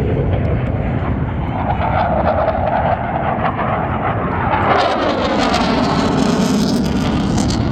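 Blue Angels F/A-18 Super Hornet jet engines flying past, loud and continuous. The sound turns sharper and hissier about five seconds in, with its pitch sweeping downward as the jet passes.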